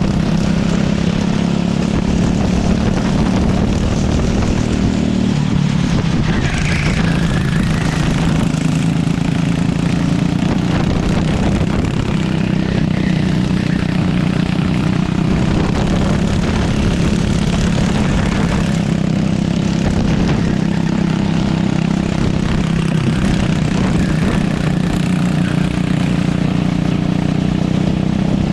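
Racing kart engine running at a steady, high speed, its pitch almost unchanging, with wind and road noise underneath.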